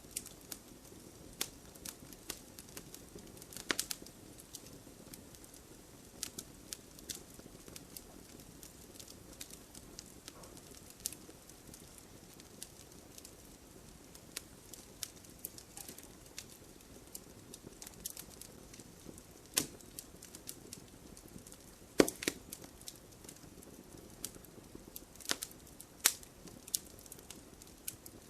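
Wood fire burning in a fireplace: a low steady hiss with irregular sharp crackles and pops of the burning logs, the loudest pop about two-thirds of the way through.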